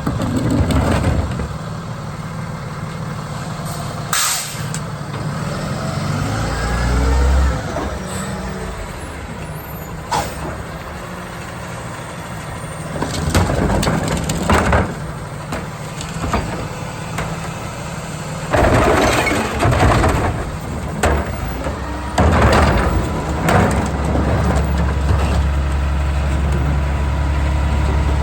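Garbage truck's diesel engine running, with repeated sharp air-brake hisses and clanks, and the engine briefly rising and falling in pitch about a quarter of the way through.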